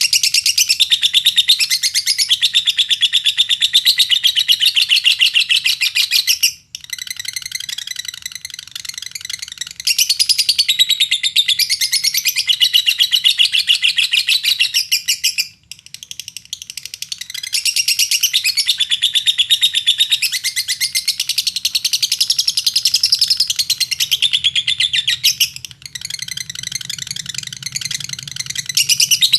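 Lovebird chattering in a long, fast stream of high chirps, broken by three brief pauses.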